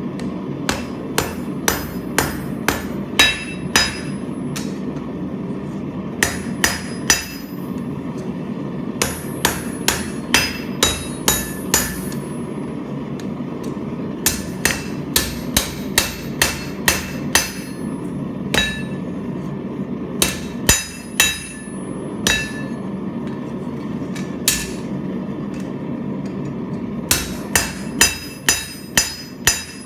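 Hand hammer striking hot steel on a railroad-track anvil to forge out a knife blank. The blows come in runs of about two a second with short pauses between, each strike ringing bright. A steady rushing noise runs underneath.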